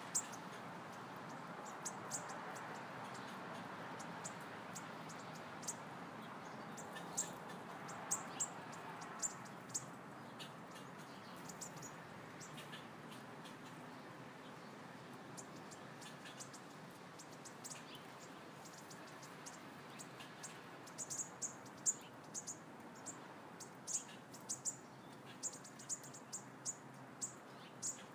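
Small birds chirping in the background, short high chirps scattered throughout and coming thicker in the last several seconds, over a steady hiss.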